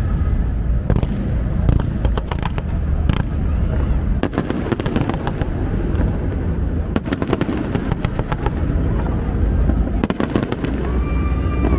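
Aerial fireworks bursting and crackling in rapid clusters over a continuous deep rumble of booms.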